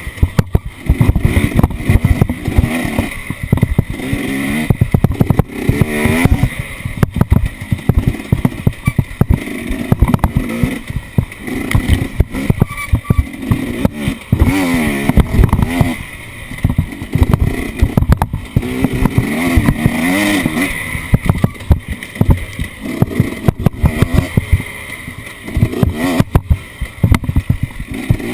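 Off-road vehicle engine revving up and down over and over, its pitch rising and falling several times, under a steady stream of knocks and rattles.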